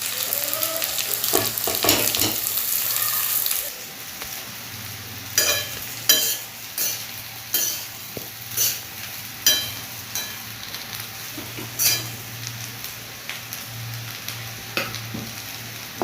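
Rice frying in a pan, sizzling loudly for the first few seconds, then being stirred with a spatula that clinks and scrapes against the pan at irregular intervals while the frying continues more quietly.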